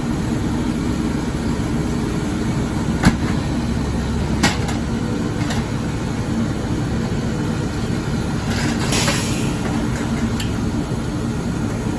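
Leach rear-loader garbage truck running steadily with a low drone, two sharp knocks about three and four and a half seconds in, and a short hiss near the end.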